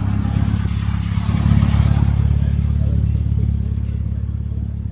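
A car's engine and exhaust rumbling close by as it drives past. The sound builds to its loudest about two seconds in, then fades.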